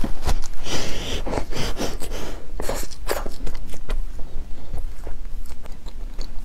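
Close-miked biting and chewing of a large sugar-coated twisted dough stick (mahua): crackly crunches and wet mouth sounds, densest in the first three seconds and sparser after.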